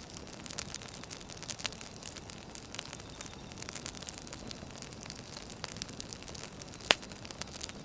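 Wood fire crackling: irregular small pops and snaps over a low hiss, with one sharp, loud pop about seven seconds in.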